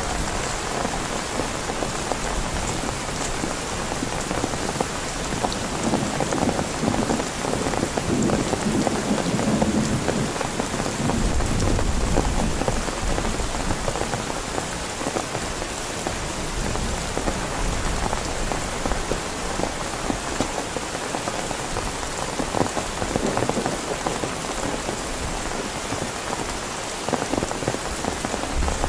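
Heavy, steady rain falling on a tent, with a low rumble from about eleven to fourteen seconds in and again near the end.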